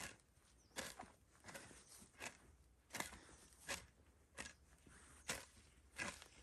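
Footsteps of a person walking at an even pace, about nine sharp steps, a little more than one a second.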